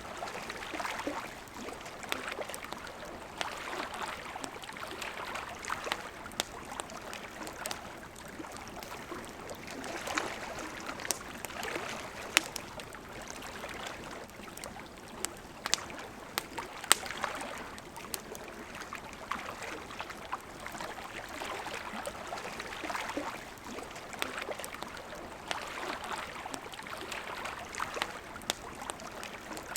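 A campfire crackling, with scattered sharp pops and one louder pop a little past halfway, over the steady rushing murmur of a river.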